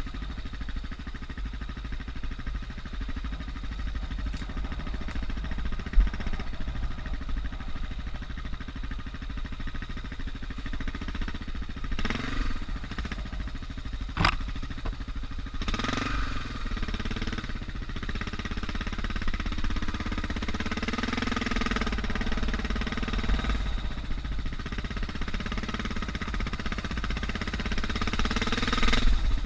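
Suzuki DR650's single-cylinder four-stroke engine running at low revs, its pitch rising and falling with the throttle, with a few sharp knocks around the middle.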